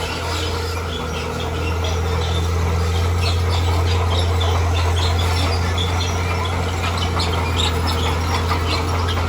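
Diesel engine of a heavy earthmoving machine running steadily as a low drone, growing a little louder about a second and a half in, with scattered short, high clicks or squeaks over it.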